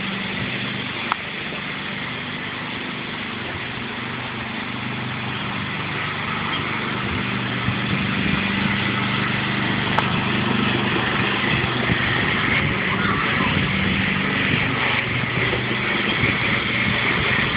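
Tractor engine running steadily, growing somewhat louder about halfway through.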